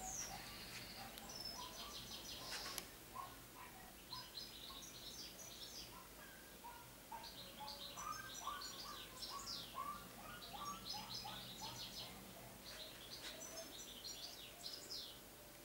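Faint birdsong: small birds chirping and twittering in short high notes and quick falling calls. One brief click about two and a half seconds in.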